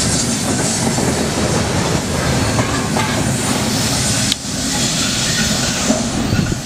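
Freight train of loaded steel-coil cars rolling past, with a steady rolling rumble and hiss of wheels on rail and occasional clicks over the rail joints.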